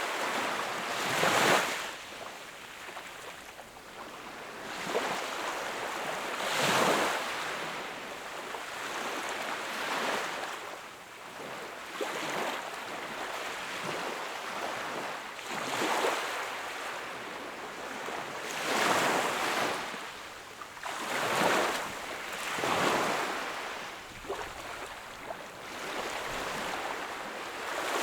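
Sea waves breaking and washing onto the shore, a surge every three seconds or so over a steady hiss of water.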